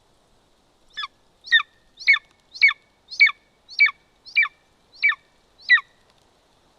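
Golden eagle calling at the nest: a series of nine short, sharp yelps, each falling steeply in pitch, about two a second, starting about a second in.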